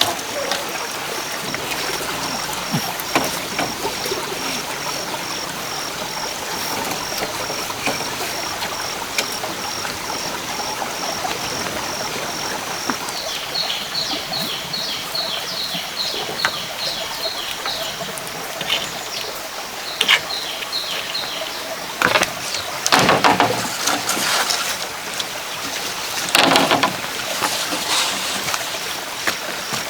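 Steady rush of running water, with a high, evenly pulsing tone over it and a repeated chirping call in the middle; two or three louder rustling bursts come near the end.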